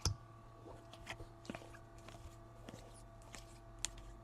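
Faint clicks and rustles of trading cards being handled and sorted, with a sharper click right at the start and another near the end.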